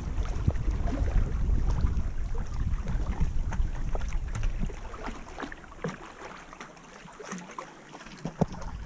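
Water lapping and splashing around a canoe, with wind rumbling on the microphone that dies down about five seconds in.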